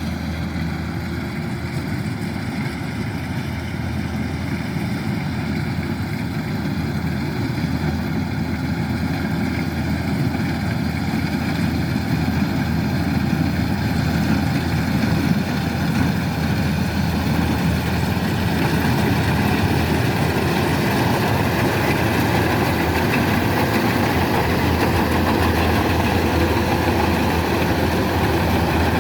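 Kubota DC-105X combine harvester's diesel engine running steadily, growing louder over the first twenty seconds or so and then holding level.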